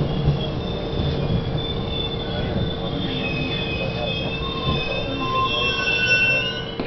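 Budd-built Miami Metrorail car running on the rails, heard from inside: a steady low rumble and hum, with the wheels squealing in several high thin tones that grow stronger in the second half.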